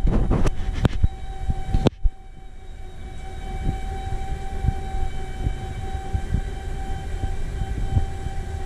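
Detroit Diesel 6-71 two-stroke marine diesel running, a low steady drone with a constant whine on top. A few knocks sound in the first two seconds, and the sound drops abruptly in level about two seconds in.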